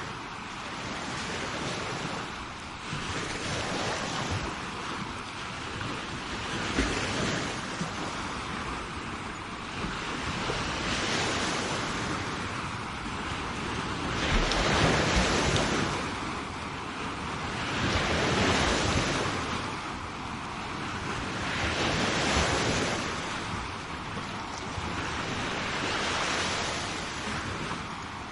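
Sea waves breaking and washing up a shore, swelling and fading about every four seconds, loudest about halfway through.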